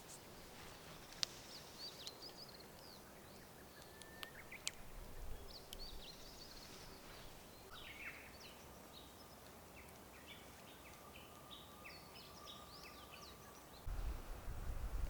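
Small birds chirping, many short high calls scattered over a quiet background, with a faint thin steady tone for several seconds in the second half. A low rumble comes in near the end.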